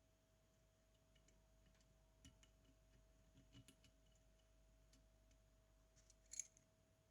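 Near silence with faint, scattered small clicks and ticks of small metal tools and parts being handled, a sharper cluster of clicks near the end, over a faint steady hum.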